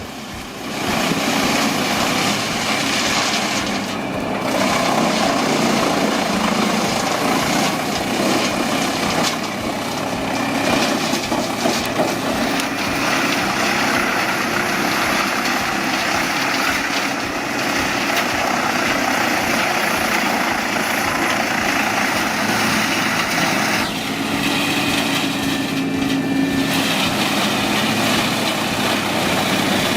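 Truck-mounted wood chipper running and chipping timber: a steady, dense engine and chipping noise that changes in level and pitch a few times as wood is fed through.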